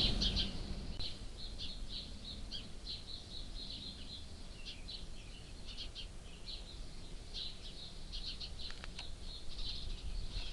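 A flock of small birds chirping continuously, many short, quick, high calls overlapping, which the hunter thinks is birds fighting.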